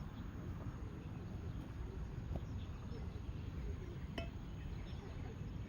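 Outdoor ambience with a steady low rumble, faint chirps, and one sharp click about four seconds in.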